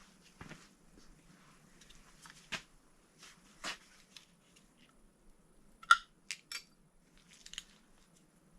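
Light metallic clicks and knocks of engine parts and hand tools being handled during engine assembly work. The loudest is a quick run of three sharp clicks about six seconds in.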